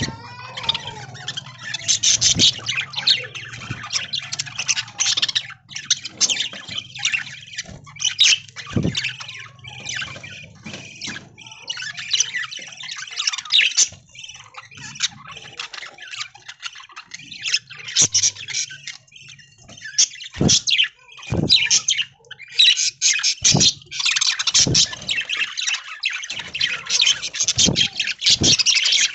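A flock of budgerigars chattering and squawking continuously, with many overlapping chirps. A few short sharp knocks come through in the second half.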